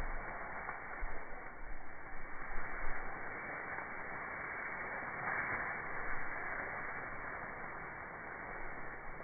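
Steady hiss-like noise, with a few faint low knocks in the first three seconds.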